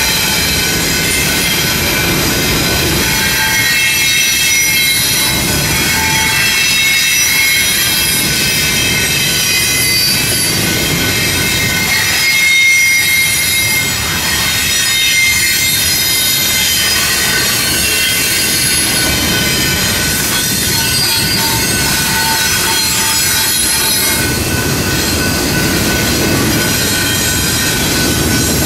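Double-stack well cars of a BNSF intermodal freight train rolling past over a steady rumble, their steel wheels squealing with many thin, high-pitched tones.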